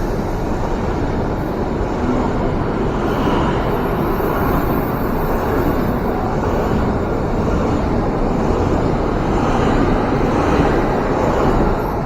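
A train running past on the rails: a steady, loud rumble of wheels and running gear that swells slightly a couple of times.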